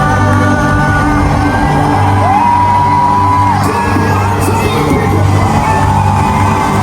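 Live worship music with long held sung notes over a steady bass, and whoops and cries from the congregation.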